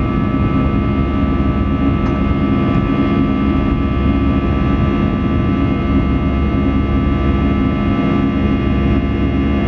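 Steady cabin drone of an Airbus A320 in flight: engine hum and airflow noise with several constant tones, no change in pitch or level.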